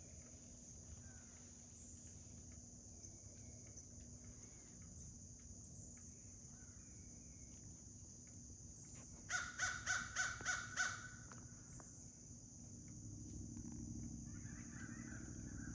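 A quick series of six or seven harsh bird calls, about nine seconds in, over a steady high drone of insects.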